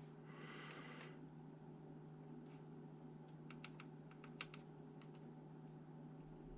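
Faint, scattered small clicks and a brief rustle, like hands handling a laptop's plastic and metal parts during disassembly, over a steady low electrical hum; near silence overall.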